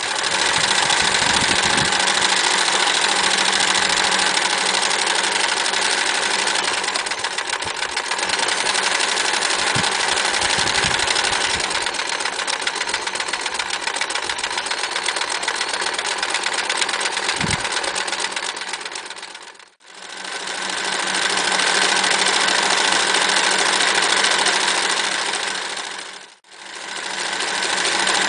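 Frister Rossmann 904 electric sewing machine running at a steady fast stitching speed. It stops briefly twice, about two-thirds of the way through and again near the end, starting straight back up each time.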